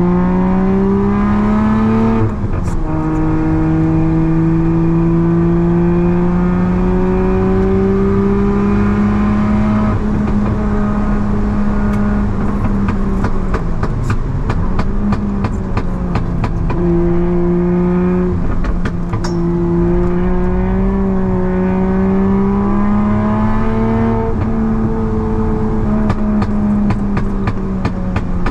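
Toyota JZ straight-six swapped into a BMW E36 Compact, heard from inside the cabin under hard track driving. It climbs in revs and shifts up about two seconds in, then holds high revs with a few dips and pickups as the throttle is eased and reapplied. A fast run of sharp clicks comes through the middle stretch.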